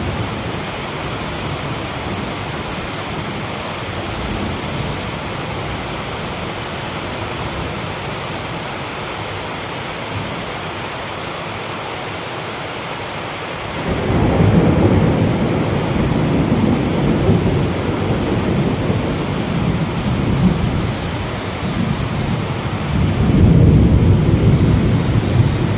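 Heavy rain falling steadily. About halfway through, thunder breaks in with a deep rolling rumble that carries on, swelling again near the end.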